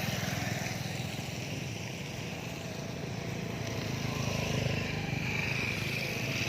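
Small motorcycle engine running steadily at low speed, its firing pulsing evenly with no change in pace.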